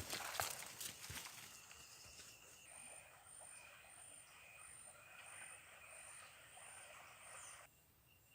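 Faint rainforest ambience: a few crackling rustles or steps at first, then a steady series of short high-pitched animal calls, about one and a half a second, that cuts off abruptly near the end.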